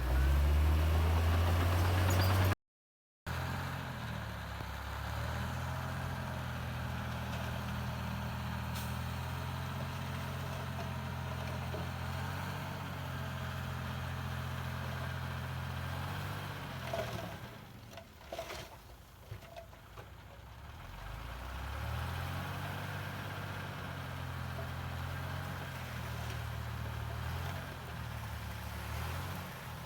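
Heavy diesel engine of earthmoving machinery running under changing throttle, its low note stepping up and down. It cuts out completely for a moment about three seconds in, fades and quietens around the middle with a few clicks and knocks, then picks up again.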